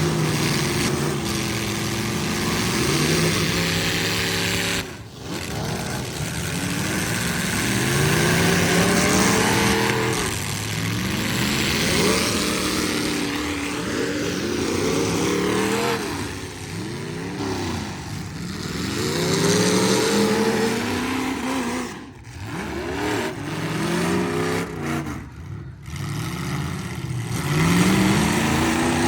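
Several full-size pickup trucks' V8 engines revving hard, their pitch repeatedly rising and falling as they accelerate and back off in a demolition derby. The sound drops out abruptly for a moment a few times.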